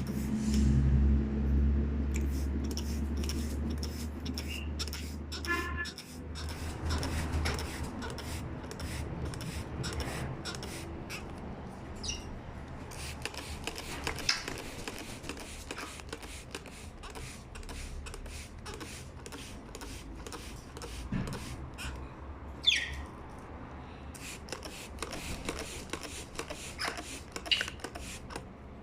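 Scattered small clicks and taps, with a few short high chirps from a pet parrot, one of them a brief falling call near the end. A low steady hum runs for the first few seconds and cuts off suddenly.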